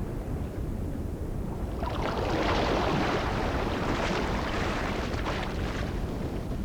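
Rush of sea water, surf or splashing, under a steady low rumble; the water sound swells about two seconds in and dies away near the end.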